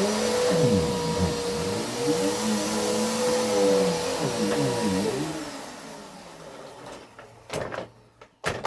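Vacuum cleaner running with a steady hum, then switched off about five seconds in, its motor winding down over the next two seconds. A few sharp knocks follow near the end.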